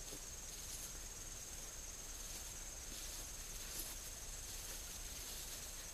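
Crickets trilling steadily at a high pitch, faint over a low outdoor hiss.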